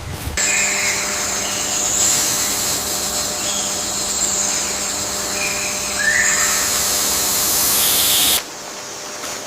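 Rainforest ambience: a dense, steady high-pitched hiss, like an insect chorus, with a few short bird calls. It starts abruptly about half a second in and cuts off sharply about a second before the end.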